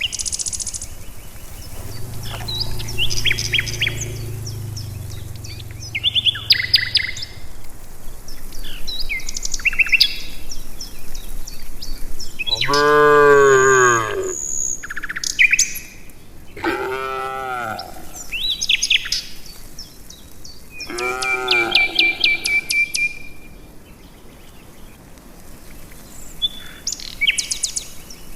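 Village cattle mooing: one low, drawn-out moo a few seconds in, then three louder moos about halfway through and after, the first of them the loudest. Small birds chirp and twitter throughout.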